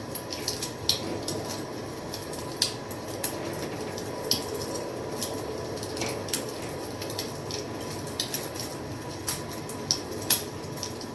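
Wood fire crackling: sharp, irregular pops and snaps, a few of them louder, over a steady low rumble of the burning.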